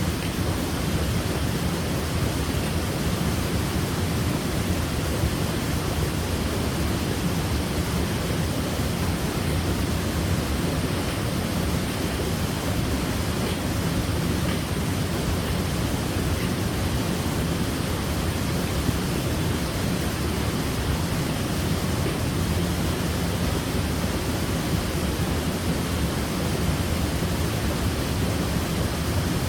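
Waterfall: falling water rushing steadily, a dense unbroken noise heaviest in the low end.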